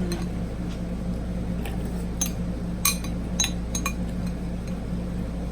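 A few light clinks of tableware at a meal, mostly in the middle of the stretch, over a steady low hum.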